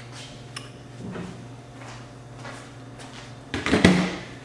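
Light clicks and taps of parts being handled inside the opened metal chassis of an AV receiver. About three and a half seconds in comes a louder cluster of knocking and scraping as a part is worked loose.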